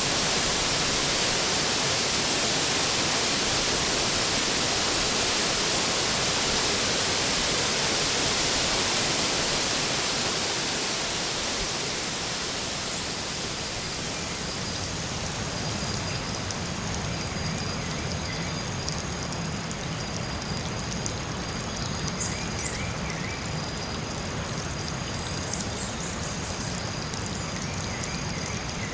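Forest soundscape: a steady rushing hiss like rain or running water, which fades down about ten seconds in. Two steady high-pitched insect drones and scattered short chirps then carry on above a softer hiss.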